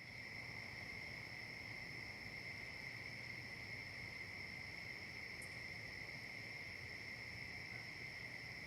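Crickets singing in a steady, unbroken high-pitched trill.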